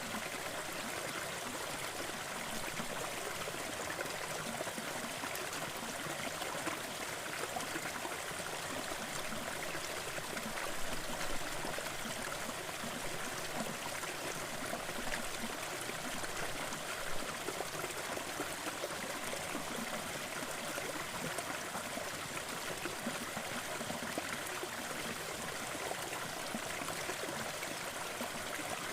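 Small waterfall in a forest, water falling and splashing in a steady, unbroken rush.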